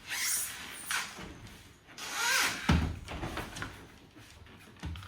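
A front-loading washing machine being slid back into its place: scraping and rubbing noises, with one heavy thump about two and a half seconds in.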